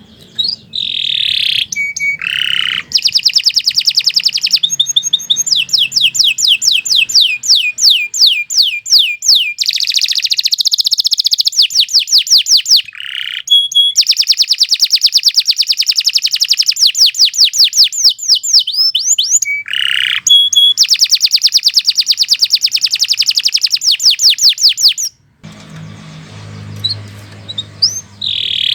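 Domestic canary singing a long, loud song of rapid trills, each a fast run of repeated rising notes, with brief breaks between phrases. The song stops about 25 seconds in, leaving a quieter stretch with a single short call near the end.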